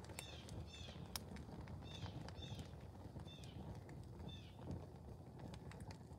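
A bird calling: six short, falling chirps, mostly in pairs, fading out after about four and a half seconds. Underneath is a low steady rumble with scattered small ticks and pops from the burning plastic clock case.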